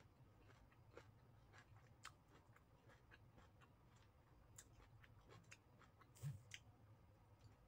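Faint chewing with scattered small wet mouth clicks, close to silence, and one slightly louder brief sound about six seconds in.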